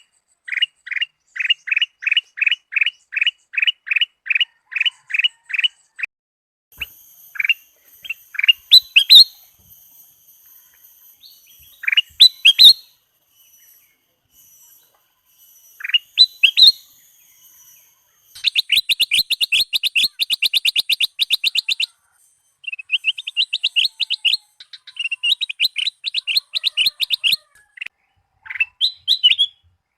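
Kutilang Emas bulbul singing. It starts with a run of repeated sweeping whistled notes, about two or three a second. These give way to varied single notes and short phrases, then to fast, dense trilled bursts from about the middle onward, with faint high thin whistles in the background for a while.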